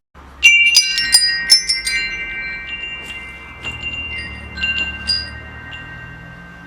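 Metal wind chimes clanging in a quick flurry of strikes that leave several clear tones ringing on, followed by a few scattered, softer strikes. A low steady rumble runs underneath.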